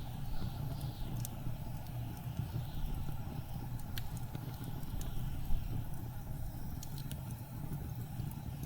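Blizzard wind making a steady low rush, with a wood fire crackling over it in sparse, sharp pops, a few of them close together near the end.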